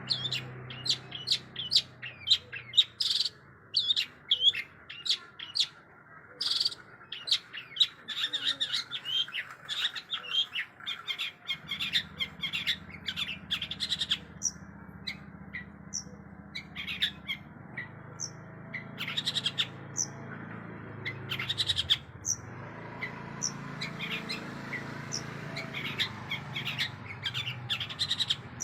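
Long-tailed shrike (cendet) singing a fast string of short, sharp chirps and mimicked phrases, densest in the first part, sparser in the middle and busier again near the end.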